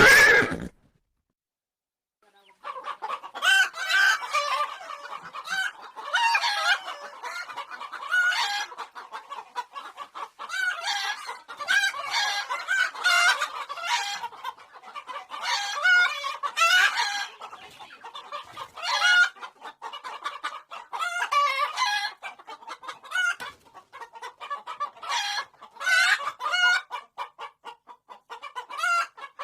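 A loud sound cuts off in the first second, followed by a brief silence. Then a flock of chickens clucks continuously, with many overlapping calls.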